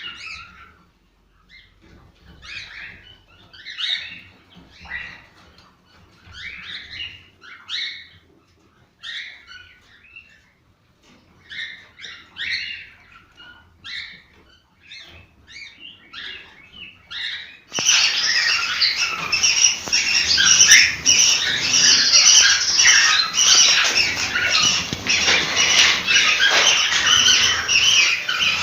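Cockatiels chirping: separate high calls about once a second at first, then about two-thirds of the way in it cuts suddenly to a louder, dense chorus of many cockatiels calling at once.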